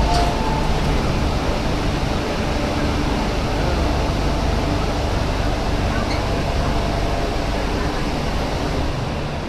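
Inside an MTR Tsuen Wan line Q-train (Hyundai Rotem electric multiple unit) running between stations: a steady rumble and rush of wheels on rail with a faint, even motor hum.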